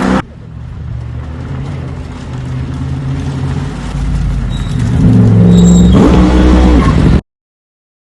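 Toyota GR GT V8 engine running at low revs, its note slowly growing louder. About six seconds in it revs up in a rising glide, then the sound cuts off suddenly.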